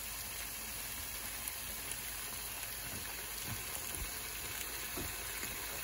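Capsicum, onion and hot sauce sizzling steadily in oil in a frying pan, with a few faint knocks of the wooden spatula.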